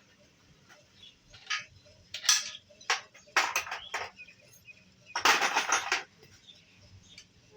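Metal tools and motorcycle chain/sprocket parts clinking and rattling in a series of short bursts, with the longest and loudest rattle lasting almost a second near the end, as the chain and sprocket are worked on.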